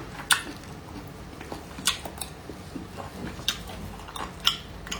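Close-miked chewing of a chunk of pork: wet mouth sounds with about five sharp crisp clicks as the meat is bitten and chewed.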